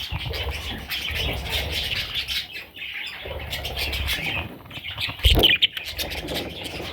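Budgerigars chirping and chattering continuously, with a sharp thump about five seconds in.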